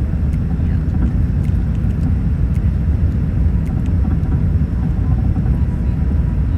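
Steady low rumble of airliner cabin noise aboard an Airbus A380-800, heard from a lower-deck economy seat.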